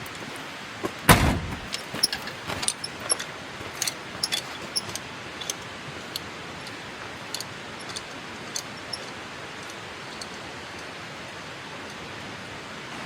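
A heavy thump about a second in, followed by a run of sharp clicks and light clinks that thin out, over a steady background hiss.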